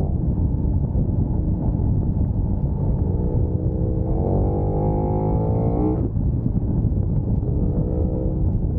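Sport motorcycle engine pulling hard at speed over heavy wind rumble on the microphone. About four seconds in the revs climb quickly, then cut off sharply around six seconds in, as at a gear change or closed throttle. The engine then pulls again at lower revs.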